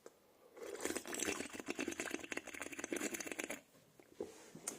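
Water pouring into a plastic drinks bottle as it is filled, a rapid glugging clatter for about three seconds that stops shortly before the end.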